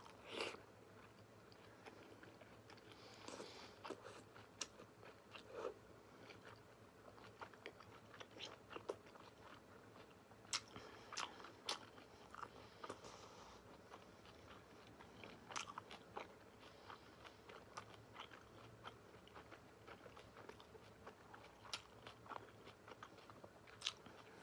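Close-miked chewing and biting of pasta with kale, soft crunches and small clicks coming at irregular intervals.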